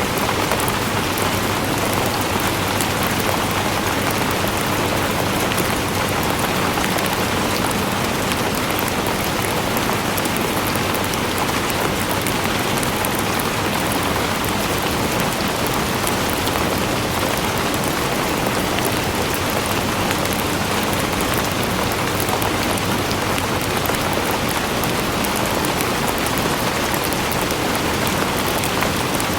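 Steady heavy rain falling on surfaces, a dense even hiss with many fine drop patters.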